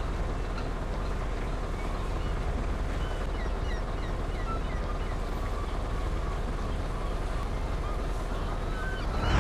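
Truck running on the road with a steady low rumble of engine and road noise. Many small high chirps or squeaks come and go over it, and a louder bump comes at the very end.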